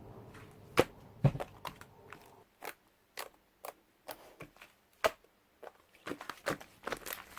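Irregular clicks and taps of small craft tools and materials being picked up and set down on a work surface while modelling clay, a couple of louder knocks among them.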